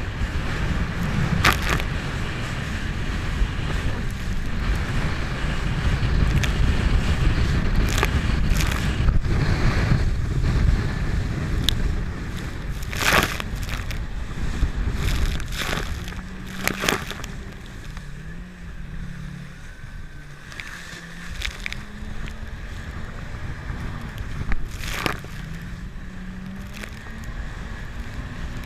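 Jet ski running on the water, with wind buffeting the microphone and sharp slaps of water or hull against the waves. From about halfway the engine's note can be heard wavering up and down.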